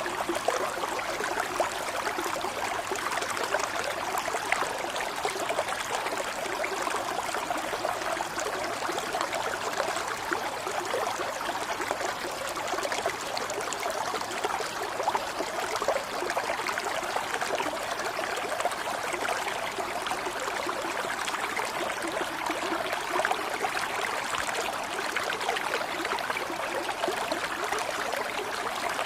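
Running water, like a stream or brook flowing and trickling over stones, steady and unbroken.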